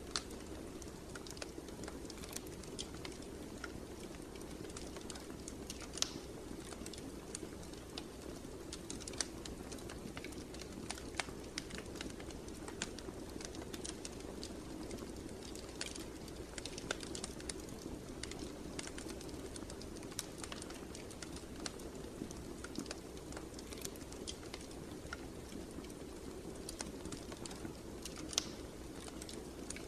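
Wood fire burning in a fireplace: a steady low rumble of flame with irregular crackles and pops, a sharper snap about six seconds in and several more scattered through.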